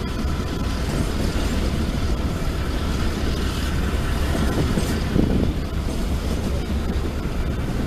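Canadian National freight train's boxcars rolling past, a steady rumble of steel wheels on the rails that swells briefly about five seconds in.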